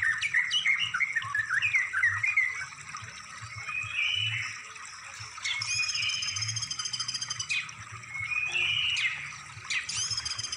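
Songbird song: a run of quick sweeping chirps for the first two or so seconds, then a short buzzy warble, then a high rippling trill lasting about two seconds, which starts again near the end.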